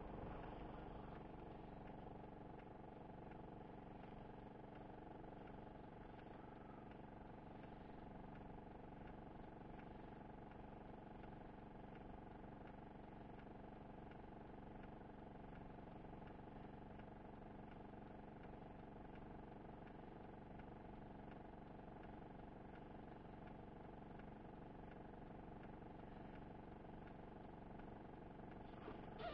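Faint, steady hum of a Mitsubishi L200 pickup's engine idling, heard inside the cab while the vehicle is stopped.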